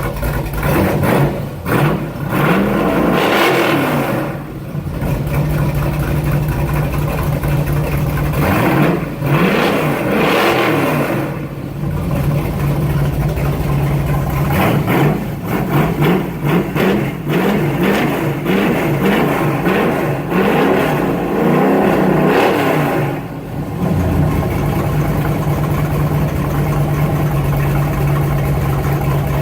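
1970 Chevelle engine, loud through short glass-pack pipes welded directly onto the headers, revved in repeated blips several times, then settling to a steady idle for the last few seconds.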